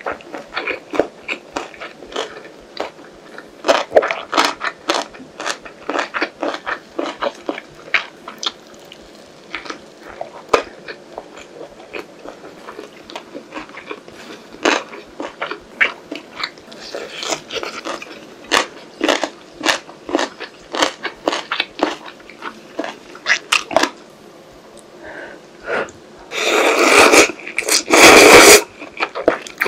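Close-miked chewing of kimbap (seaweed-wrapped rice roll): a run of short, wet, crunchy mouth clicks. Near the end come two long, loud slurps of ramen broth sipped from a bowl.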